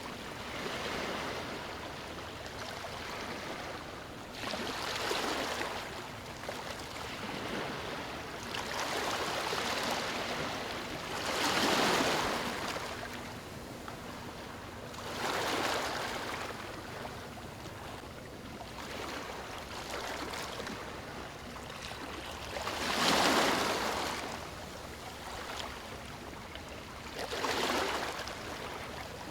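Waves breaking and washing up a beach, each surge swelling and fading every few seconds over a steady wash of water, the loudest about twelve and twenty-three seconds in.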